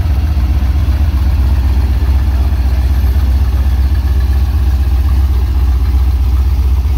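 Ford Fairlane's 351 V8 engine giving a steady, deep rumble as the car rolls slowly past.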